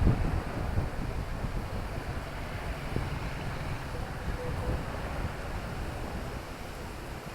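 Outdoor town-street ambience: a steady low rumble of wind buffeting the microphone and distant traffic, a little louder at the start and easing off, with faint far-off voices.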